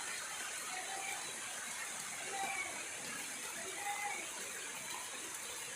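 Steady rush of flowing water, with a few short high tones on top about a second, two and a half and four seconds in.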